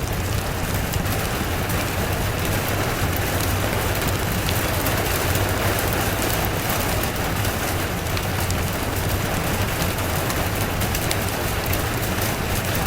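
Steady rain falling: a continuous dense hiss with scattered sharp drip ticks, over a steady low rumble.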